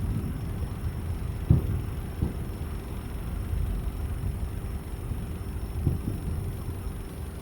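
Aerial fireworks shells bursting at a distance: a continuous low rumble of booms and echoes, with sharper thuds about one and a half and two seconds in and again near six seconds.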